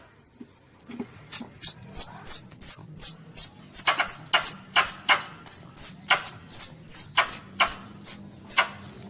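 Young Asian palm civet (luwak) calling: rapid, high-pitched squeaks, each dipping slightly in pitch, about three a second, starting about a second in.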